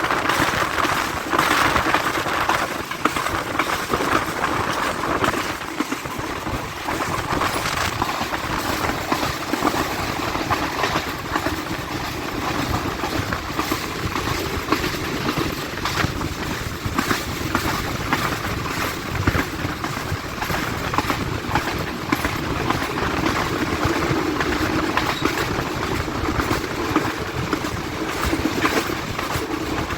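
Passenger train running along the track, heard from on board: a steady rumble of the coach with a constant clatter of the wheels on the rails.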